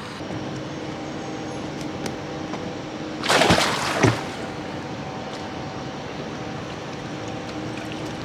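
A homemade paper-mâché boat splashing into canal water about three seconds in, one loud surge lasting about a second, over steady trickling water and a faint hum.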